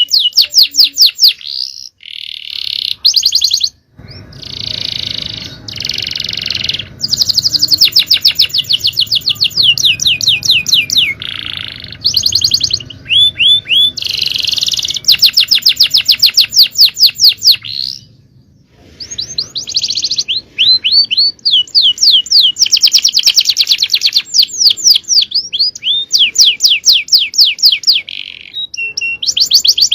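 Male domestic canary singing a long, fast song: rapid trills, each a quick run of many repeated rising notes, switching from one trill to the next. There are brief pauses about two seconds in and just past the middle.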